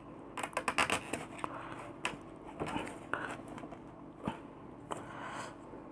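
Small clicks and scrapes of hands fitting a cable into a compressor nebulizer: a quick run of clicks about half a second in, then single clicks and scrapes every second or so.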